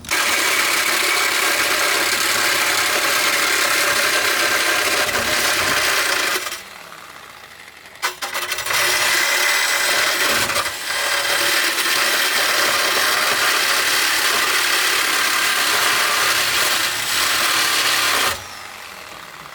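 Corded power cutting tool running under load as it cuts through the steel exhaust muffler pipe, in two long runs with a pause of about two seconds and a sharp click between them.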